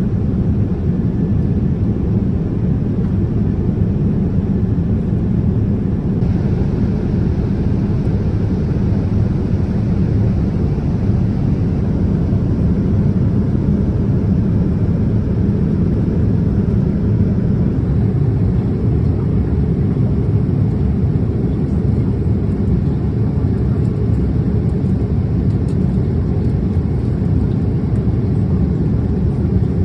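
Steady in-flight cabin noise of a Boeing 787-10 airliner: an even, low rush of engine and airflow noise.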